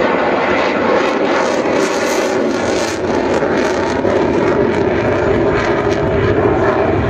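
Eurofighter Typhoon's twin EJ200 turbofan engines under power as the jet flies its display; steady, loud jet noise, with the deep rumble growing stronger in the second half.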